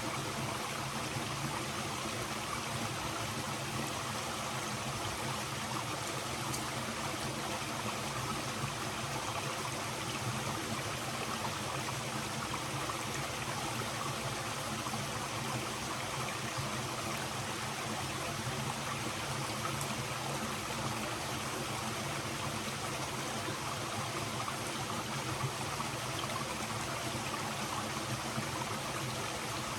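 Stream flowing, a steady rush of running water.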